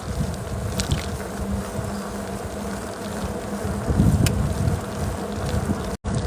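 Wind buffeting the microphone of a moving bicycle, with a steady buzzing hum underneath and a few faint clicks. The sound cuts out for an instant near the end.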